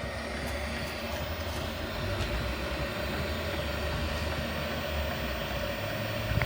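Diesel air heater starting up after a clean and a new glow plug: its fan running with a steady low rumble as the burner tries to fire.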